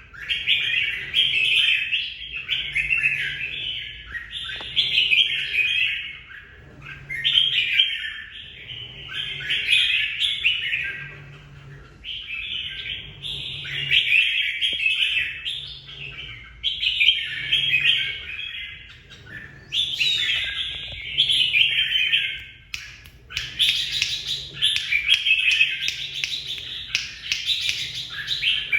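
Red-whiskered bulbul singing: bursts of bright, quick warbling phrases, each a second or two long, with short pauses between.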